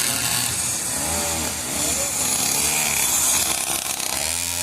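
Small mini GP racing motorbike engines buzzing and revving, the pitch rising and falling as the bikes pass, with a rise in pitch near the end.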